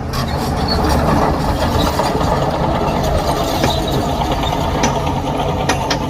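Heavy diesel earthmoving machinery running steadily, with scattered metallic clanks and rattles over the engine noise.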